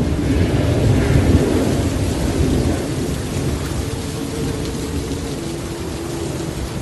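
Heavy rain falling with a low rumble of thunder that swells over the first two or three seconds and then fades, leaving steady rain.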